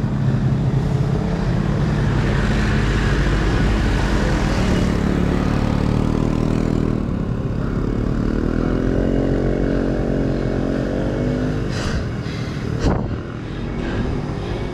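A motor vehicle's engine passing on the road, its hum swelling and shifting in pitch for several seconds before it fades, over a steady low traffic rumble.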